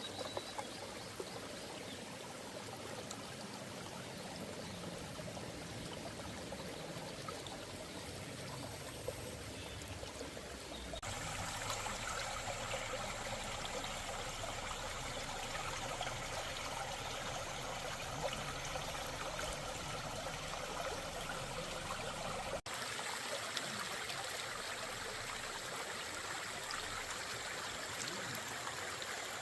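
A valley stream running, a steady rush of flowing water. The sound changes abruptly twice, about a third of the way in and again about three-quarters of the way through.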